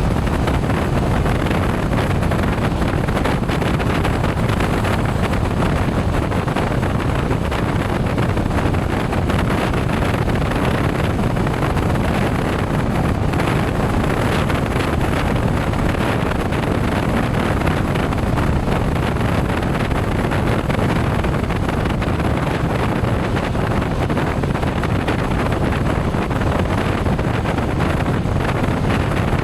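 Steady rush of wind over the microphone on a moving motorcycle, mixed with the motorcycle's engine and road noise, holding steady speed throughout.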